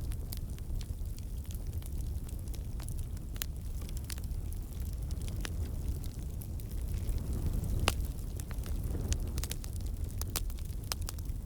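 Campfire burning: a steady low rumble of flames with irregular crackles and pops, one louder pop about eight seconds in.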